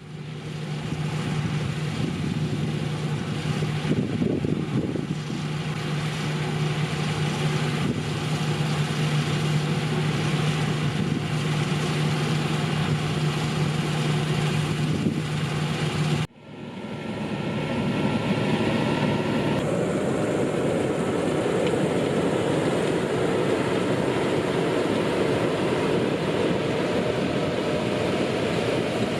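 John Deere 660i Hillmaster combine harvester running in the field, a steady engine hum. About 16 seconds in the sound cuts off abruptly and gives way to a broader, rushing machine noise.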